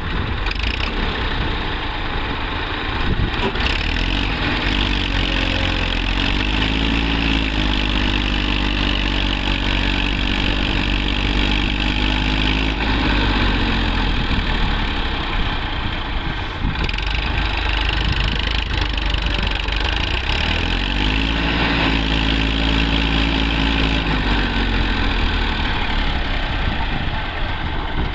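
Tractor engine running steadily and twice revved up, held high for several seconds and let back down, as the tractor tries to pull itself out of sand it is stuck in.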